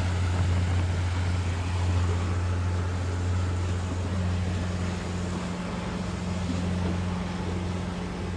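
A vehicle's engine running steadily at a constant speed: a low, even hum with rushing noise over it.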